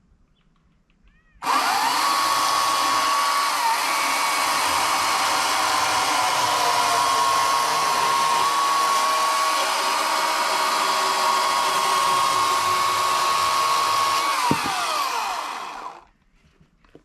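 EGO CS2005 56-volt brushless battery chainsaw running at speed with a steady high electric whine. It starts abruptly, holds for about thirteen seconds, then winds down in pitch and fades as the trigger is let go.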